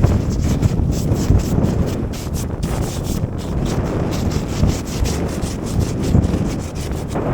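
Repeated scraping and rubbing strokes over wind noise on the microphone.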